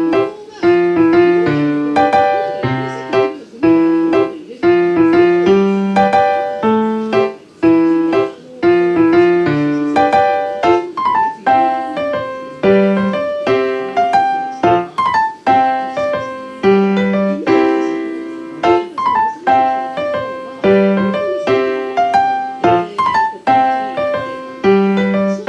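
Background piano music: a melody of short, evenly paced notes over a repeating bass line.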